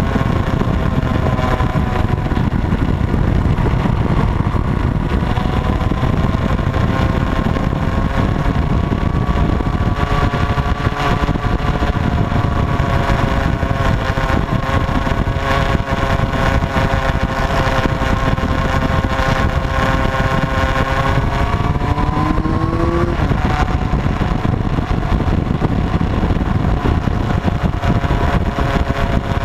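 Motorcycle engine running on the move, its note holding fairly steady over a dense low rumble. About three quarters of the way through the note climbs and then breaks off.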